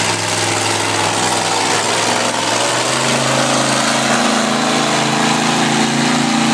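Monster truck engine running steadily, its pitch rising a step about three seconds in and holding higher.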